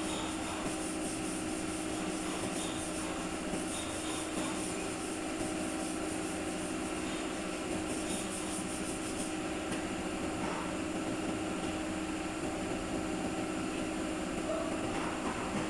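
A steady machine hum over a continuous rubbing noise, with a pulsing high hiss that fades out about nine seconds in.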